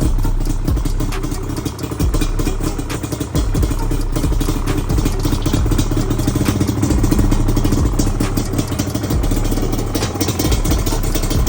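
Yamaha Banshee's two-stroke parallel-twin engine running steadily through Pro Circuit exhaust pipes, with a fast, uneven firing beat.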